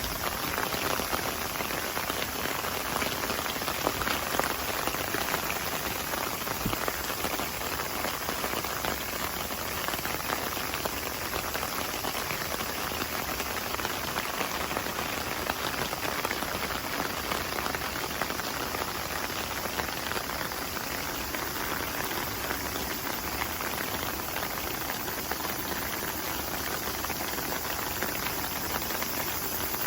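Rain falling on surfaces, a steady, even patter with no let-up.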